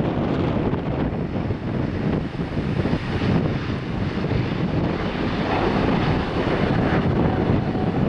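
Steady jet engine noise from the departing Airbus A350, whose Rolls-Royce Trent XWB engines make the low rumble, mixed with wind buffeting the microphone.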